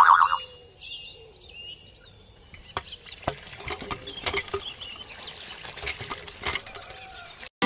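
Small birds chirping in short high calls, then a run of irregular light clicks and taps with a faint wet, splashy quality.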